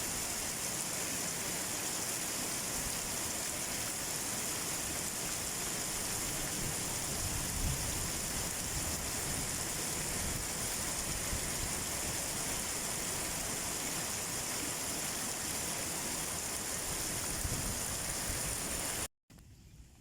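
Heavy rain falling in a steady, dense hiss that cuts off suddenly near the end.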